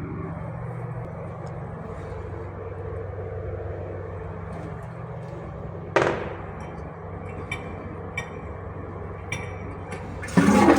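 Steady low hum, with one sharp clank that rings off about six seconds in and a few light clicks after it. Near the end the American Standard Champion 4 toilet's flush bursts in with a rush of water.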